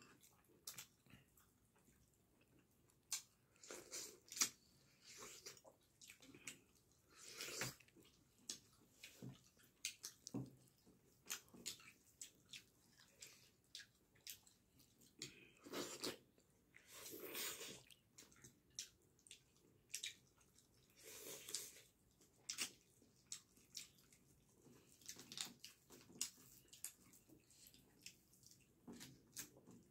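Faint close-up eating sounds: wet chewing and mouth smacks, with many soft clicks and a few longer wet sounds, as chicken curry and dhido are eaten by hand.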